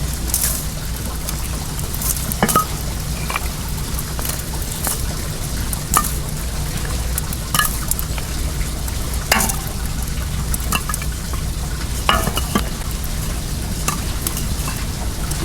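Wood bonfire crackling, with irregular sharp pops, over the steady rush of flowing well water and a low steady hum.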